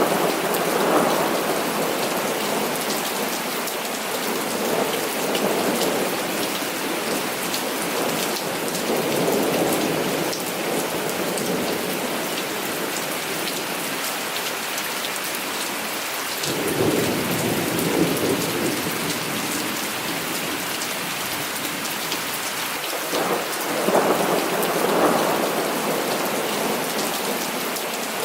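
Heavy rain falling steadily with a constant hiss, while rolls of thunder swell and fade several times. The deepest, longest rumble comes about 17 seconds in.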